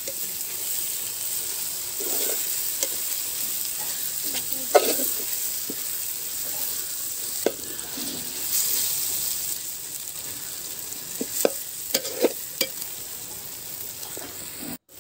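Sliced onions and chopped tomatoes sizzling as they fry in a metal pan, with a metal spoon stirring and scraping through them and knocking against the pan now and then. The sound drops out briefly near the end.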